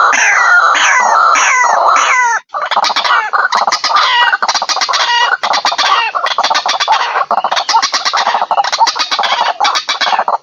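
White-breasted waterhen (ruak-ruak) calling loudly: a run of repeated falling calls, about two and a half a second, breaks off briefly a little over two seconds in. It gives way to a denser, harsher run of rapid chattering notes.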